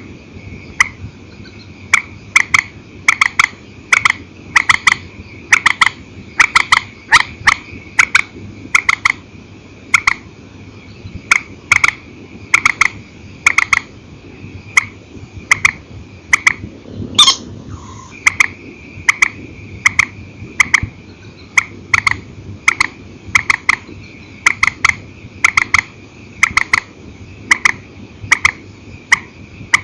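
Swamphen (chim trích) calling: loud, short, sharp notes repeated throughout, singly and in quick pairs or triplets. About seventeen seconds in there is one brief noisy burst.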